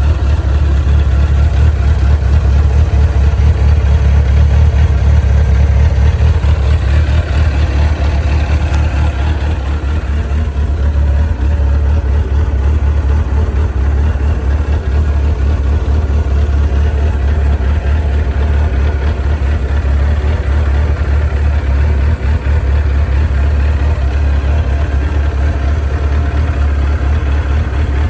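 1994 Suzuki RF900's inline-four engine idling steadily, with its exhaust pulsing evenly.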